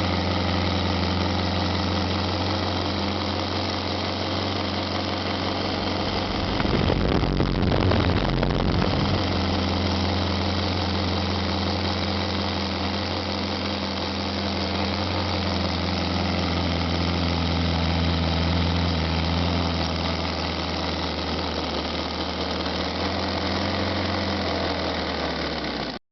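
Radial engine running steadily at a low, even speed, with a louder, rougher stretch about seven seconds in; the sound stops abruptly at the end.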